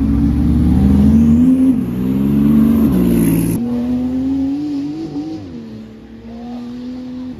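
A high-performance car's engine accelerating hard, its pitch climbing through the revs, then dropping abruptly about three and a half seconds in. After the drop it pulls on at a steadier pitch and fades as it moves away.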